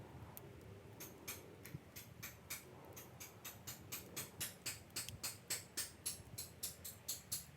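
Knife blade scraping fatwood in quick, short strokes, about four a second, growing faster and louder before stopping near the end.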